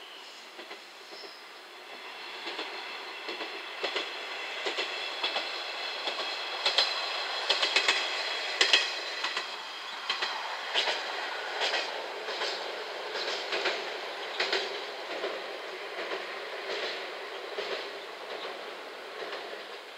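JR Shikoku 1500-series single-car diesel railcar passing by, its wheels clicking over the rail joints. The sound builds to a peak a third of the way in, with a high-pitched whine over the clicks, then carries on clicking and fades as the railcar runs onto the bridge.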